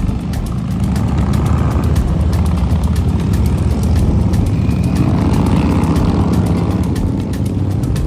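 Can-Am three-wheeled motorcycle engines running with a steady low rumble, one engine's pitch rising and falling about five seconds in.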